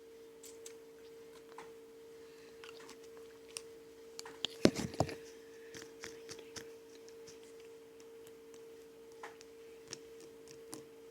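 Scattered small clicks and handling noises, with a short cluster of louder knocks about halfway through, over a steady low hum.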